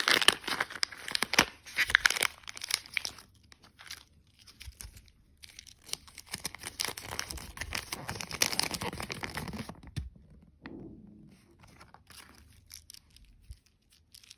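Crinkly plastic candy packaging being torn open and crumpled, in two long crackling stretches with fainter rustles between and after.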